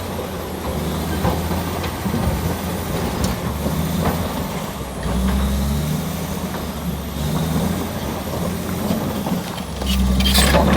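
Crawler bulldozer's diesel engine running under changing load, its note rising and falling as it works, with a loud knock about ten seconds in.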